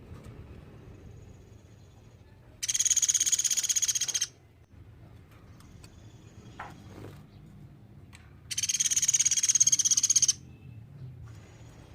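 Platuk beras (velvet-fronted nuthatch) giving two loud, fast trills of rapidly repeated high notes. Each lasts under two seconds, and they come about six seconds apart.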